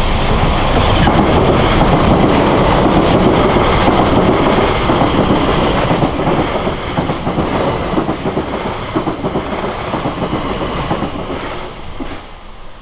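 South Western Railway Class 701 Arterio electric multiple unit passing at speed, its wheels clattering over the rails. The sound dies away near the end.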